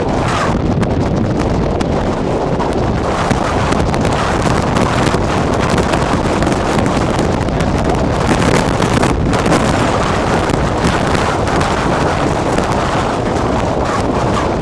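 Strong wind buffeting the microphone, a loud steady rush of noise with small gusty swells, in the storm winds near a tornado.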